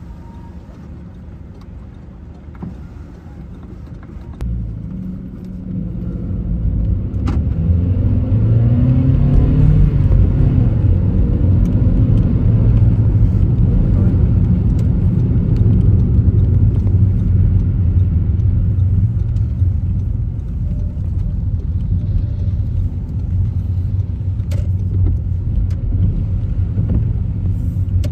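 Car pulling away about four seconds in, its engine note rising as it accelerates, then a steady low engine and tyre rumble as it drives on.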